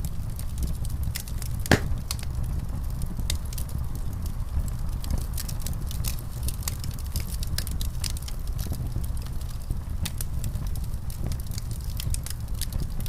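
Wood fire in a fireplace crackling, with a steady low rumble under many small pops and one louder pop about two seconds in.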